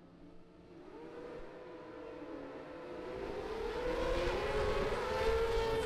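A racing superbike's engine at high revs, approaching and growing steadily louder, its pitch rising slowly.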